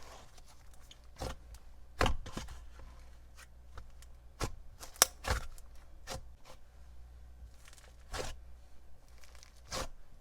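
Hands playing with a thick slime: irregular sharp pops and clicks with soft tearing sounds between them, the loudest pop about halfway through.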